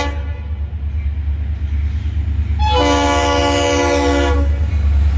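Horn of the approaching Florida East Coast Railway Christmas train sounding for the grade crossing: a short blast as it begins and a longer chord-like blast of about a second and a half around three seconds in, over a steady low rumble that grows louder as the train nears.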